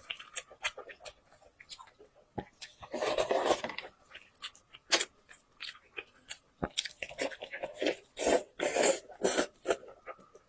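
Close-miked eating: chewing, crunching and mouth clicks, dense and irregular, with two longer noisy stretches about three seconds in and around eight to nine seconds.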